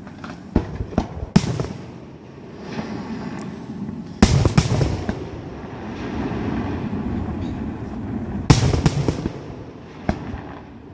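Fireworks display: shells bursting in sharp bangs, with rapid smaller pops and rumbling between them. The biggest bursts come about four seconds in and again about eight and a half seconds in.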